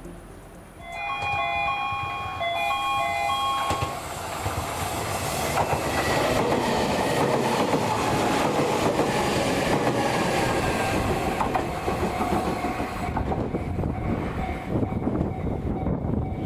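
A Tobu Isesaki Line train at the station. A two-note tone alternates for about three seconds, then the train's rumble and wheel clatter build up loud and carry on to the end.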